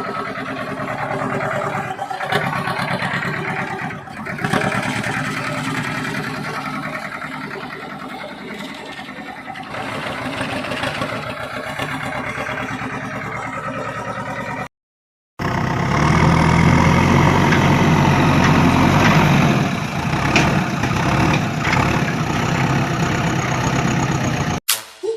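Engine running steadily. It cuts out briefly about fifteen seconds in, then resumes louder.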